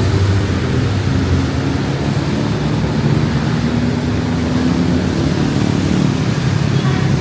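Steady low rumble of a running vehicle engine, under an even hiss of rain.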